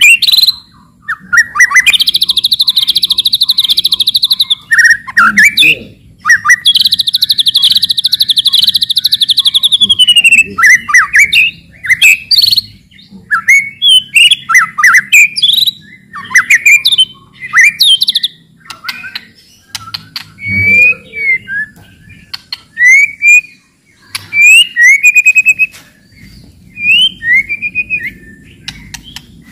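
White-rumped shama (murai batu) singing loudly: two long, rapid rattling trills ('cetrekan') in the first ten seconds, then a string of short whistled and chattering phrases that sweep up and down.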